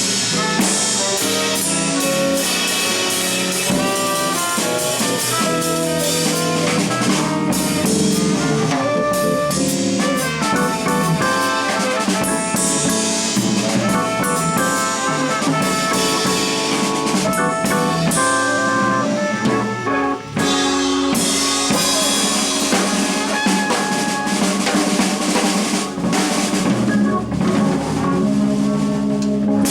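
Live jazz organ trio playing: tenor saxophone and organ over a busy drum kit with rimshots.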